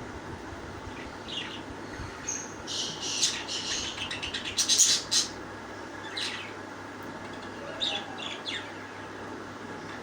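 A parrot screeching. Short falling calls come about a second in, then a run of harsh, loud screeches between about three and five seconds in, and a few more short calls near the end, over a steady background hiss.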